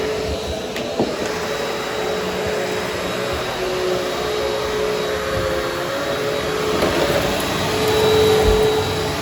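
Vacuum cleaner running steadily over a very dusty carpet, its motor hum shifting slightly in pitch as it is pushed back and forth, with a click about a second in.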